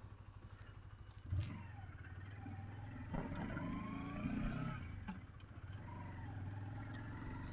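Honda CBR125R's single-cylinder 125 cc engine running at low road speed through a turn. It picks up a little about three seconds in, with a faint, slowly rising whine. A short knock about a second and a half in.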